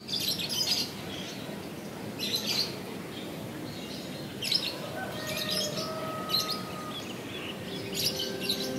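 Small birds chirping in short high clusters, about six times. Soft held music notes come in near the end.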